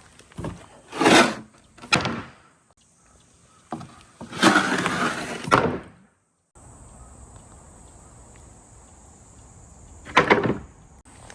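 Glass marbles rolling down a handmade marble run track, clacking against its slopes and turns: a few sharp knocks in the first two seconds, a longer rolling rush about four seconds in, then a quieter steady hiss and another brief clatter near the end.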